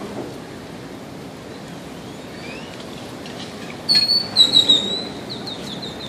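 A bird calling: a sharp high note about four seconds in, then a fast run of high chirps lasting about two seconds, over steady outdoor background noise.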